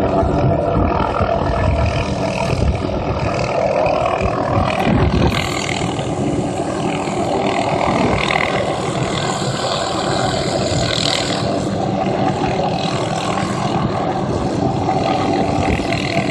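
Helicopter working over the tree line, a loud, steady mix of rotor chop and engine.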